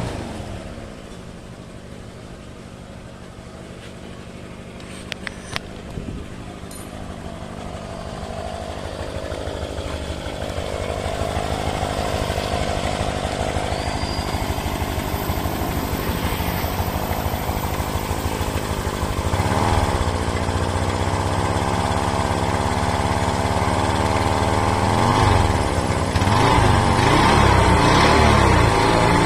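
Honda Vario 150 scooter's single-cylinder engine running, idling, then revved up and back down several times in the second half. A couple of sharp clicks come about five seconds in. Among the engine noise is the strange noise the owner places at the magnet (flywheel/alternator) side.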